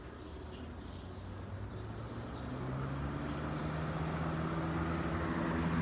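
1994-95 Air King by Lasko box fan, running on a replacement motor taken from another fan, starting up: a motor hum and a rush of air that grow steadily louder as the blades come up to speed, with a low tone rising in pitch about two and a half seconds in.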